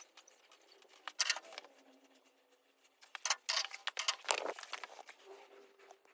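Faint scattered clicks, taps and rustling, handling noise of small objects, with louder clusters about a second in and again between three and four and a half seconds.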